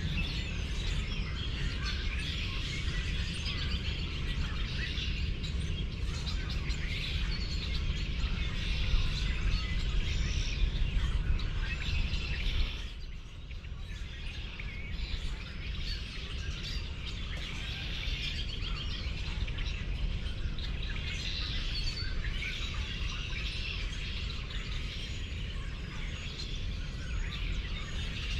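Many birds chirping and singing together in a busy morning chorus, over a steady low rumble. The sound drops briefly about thirteen seconds in.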